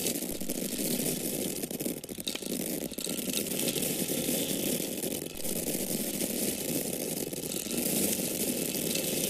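Dried corn kernels or grains pouring and pattering down in a steady stream of many small ticks, with brief lulls about two and five seconds in.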